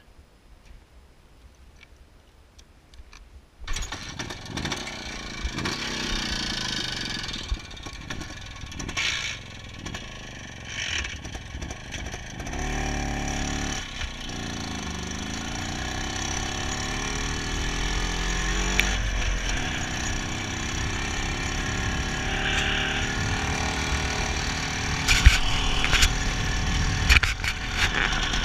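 IZh Planeta 5 motorcycle's single-cylinder two-stroke engine starting a few seconds in, then running with the revs rising and falling.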